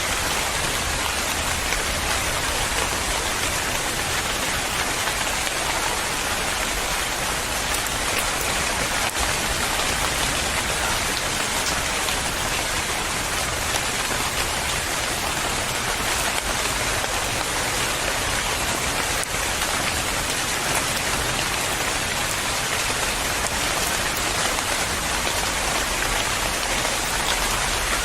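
Steady, heavy rain falling and pattering on surfaces.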